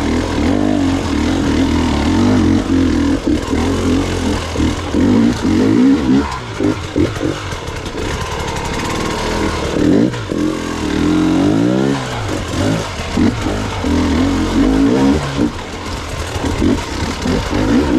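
Gas Gas EX 300 two-stroke dirt bike engine being ridden through technical off-road terrain, the revs rising and falling constantly with throttle blips, including a sharp rising rev about two-thirds of the way in.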